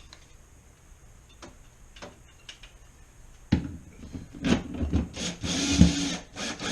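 A large screw being driven into the refrigerator's interior panel: a few light clicks, then from about halfway a run of loud scraping and rubbing as the screw turns in.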